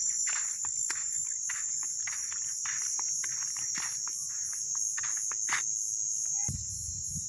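Steady high-pitched chirring of crickets and other insects, with many short irregular clicks and crackles over it; a low rumble comes in near the end.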